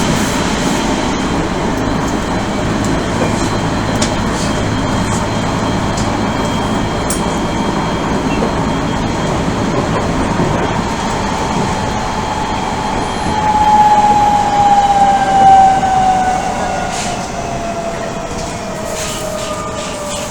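Odakyu 1000 series electric train running, heard from inside the car: steady wheel and track noise. About two-thirds of the way through, the whine of the Mitsubishi GTO inverter and traction motors swells loud, then slides slowly down in pitch as the train slows.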